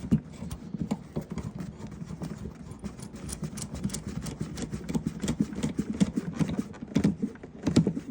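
Saddlebag mounting knob being hand-screwed onto its threaded mount, giving a run of light clicks and taps, several a second.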